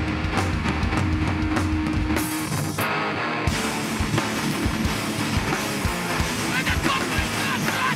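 A live hardcore band playing loud, with distorted electric guitars and a drum kit. A little over two seconds in, the bass and drums drop out for about a second before the full band comes back in.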